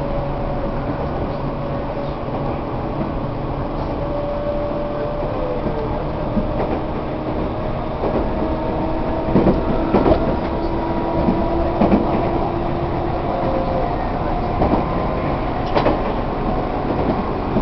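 Tobu 1800 series electric train running, heard from inside a passenger car: a steady rumble with a motor and gear whine whose pitch slowly rises. From about halfway there are sharp clacks a second or two apart, wheels going over rail joints.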